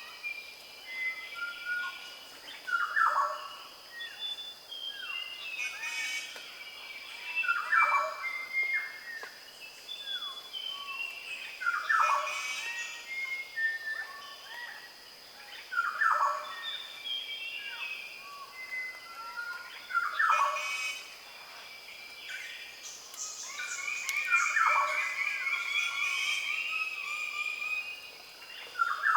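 Dawn chorus with birds of paradise among the singers: a loud call sweeping downward, repeated about every four seconds, over many overlapping chirps and whistles, with a steady high-pitched tone throughout.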